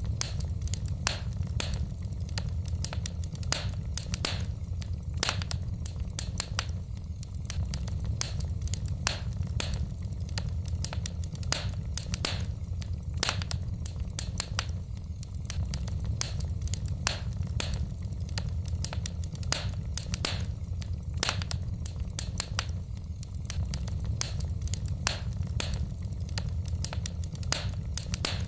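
Wood fire in a fireplace crackling: frequent sharp pops and snaps at uneven intervals over a steady low rumble.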